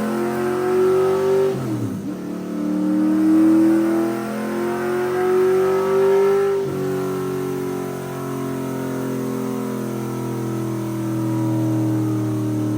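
LS3 V8 revving up on a chassis dyno: the engine note climbs for about two seconds, drops suddenly, climbs again for about four seconds, then drops sharply and runs lower, easing slowly down.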